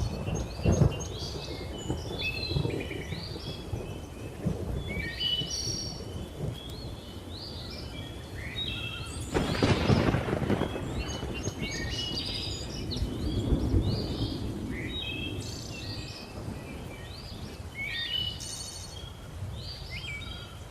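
Thunder rumbling and cracking, with the loudest clap about halfway through, while many birds chirp and call in quick overlapping whistles throughout.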